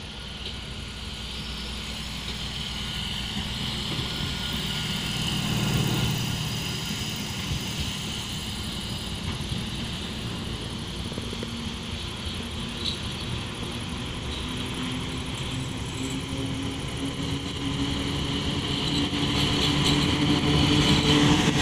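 Rumble of an approaching train building steadily louder, with a brief swell about six seconds in and a hum rising in pitch over the last few seconds as a PKP Cargo ET22 electric freight locomotive draws near.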